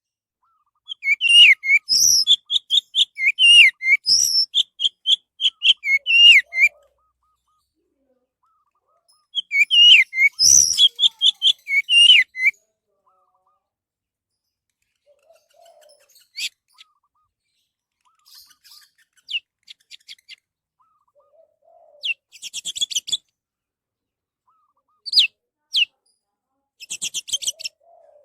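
Orange-headed thrush singing: two long phrases of rapid, varied whistled notes, followed by sparser short notes and quick buzzy series.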